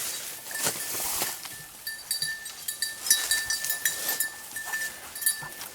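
A bell on a hunting dog's collar tinkling in quick, irregular jingles as the dog moves through cover. It begins after brush rustling and crackling in the first second or so.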